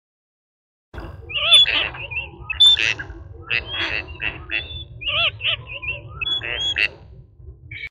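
A bird calling, a rapid series of short squawking calls that rise and fall in pitch, starting about a second in and cutting off abruptly at the end.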